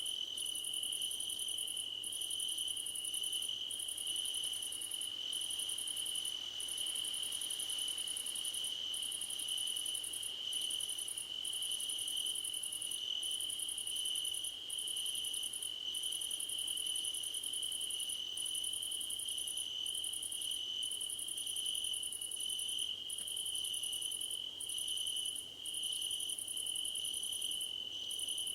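Crickets singing in grass: one steady, unbroken high trill, overlaid by a still higher trill that pulses on and off in bursts of about a second.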